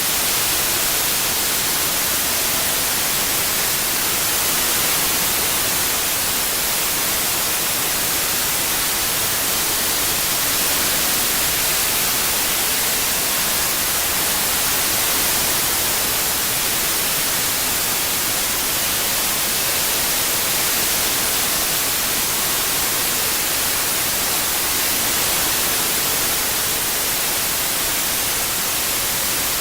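Steady synthetic white noise: an even hiss with no tones or events, brightest in the high end, its level swelling only slightly and slowly.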